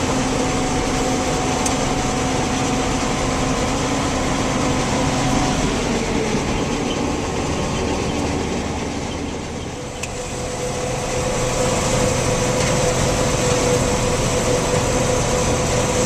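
John Deere combine running steadily while harvesting soybeans: a continuous mechanical drone with held tones that shift in pitch about five or six seconds in, with a brief dip in level just past halfway.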